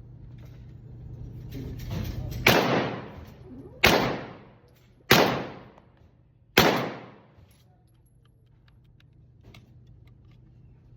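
Four gunshots fired slowly, about a second and a half apart, each with a ringing tail that fades over about a second.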